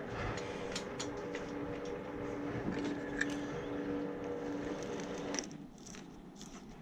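A steady machine hum of a few held tones, cutting off abruptly about five seconds in, with scattered small clicks and taps throughout.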